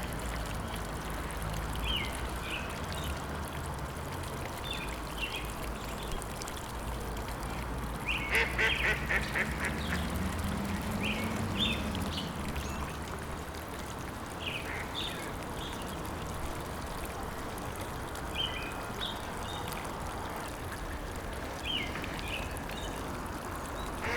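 Waterfowl calling in short, scattered quacking calls over a steady background hiss, with a denser run of calls about eight seconds in.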